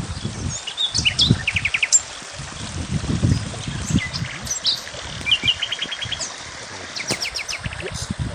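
Small birds chirping and singing outdoors, with several quick trills of rapid, evenly spaced high notes. Irregular low rumbling runs underneath.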